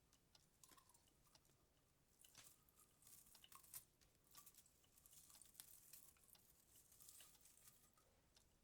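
Faint rustling and small clicks of Christmas-tree baubles being handled and hung on the tree's branches, busiest from about two seconds in.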